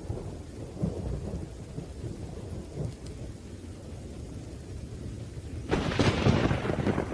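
Thunderstorm: rain with a continuous low rumble of thunder, then a sudden louder, sharper thunderclap near the end that swells and fades over about a second and a half.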